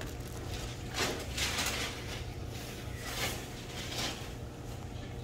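Chewing a mouthful of potato salad close to the microphone: a handful of short, soft mouth sounds over a steady low hum.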